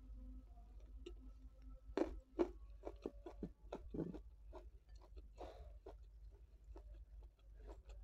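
Close-miked chewing of a mouthful of rice with raw vegetables: a run of crisp crunches and wet mouth clicks, loudest about two seconds in, thinning out toward the end.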